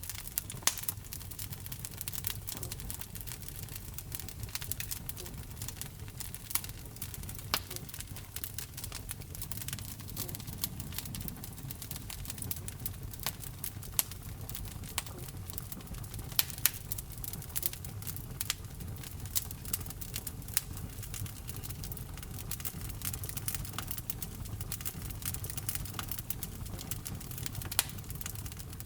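Wood fire burning in a fireplace: irregular sharp crackles and pops from the burning logs over a steady low rumble of the flames, with a few louder pops standing out.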